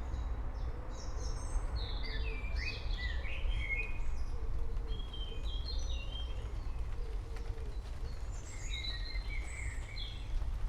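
Songbirds singing short chirps and trills, one burst of song about two seconds in and another near the end, over a steady low rumbling noise.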